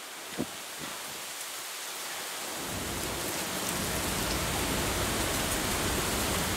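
Rain falling in a thunderstorm, an even hiss. There is a short knock about half a second in, and from about a third of the way through a low rumble comes in and the sound grows louder.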